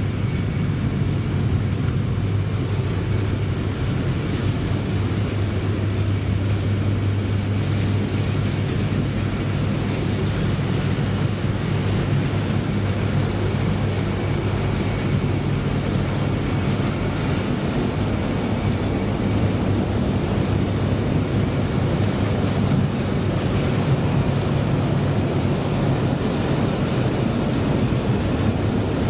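Steady low rumble and hiss inside the cabin of an E3 series 700 (Genbi) Shinkansen running on the line, with a constant low hum.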